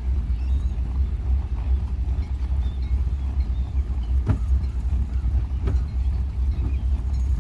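Low, steady rumble of the boat's engine running under way, with two faint knocks about four and five and a half seconds in.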